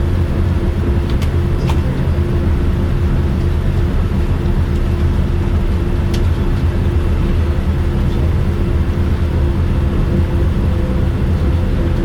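Cabin noise inside a Boeing 787-9 airliner on the ground with its engines running: a steady low rumble with a constant hum and a few faint clicks.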